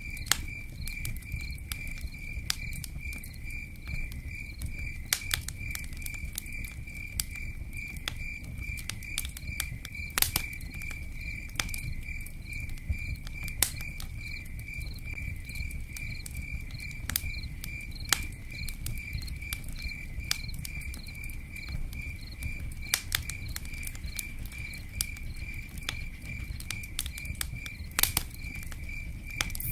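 A cricket chirping steadily in a fast, even pulse, over a campfire crackling with scattered sharp pops and a low steady rumble.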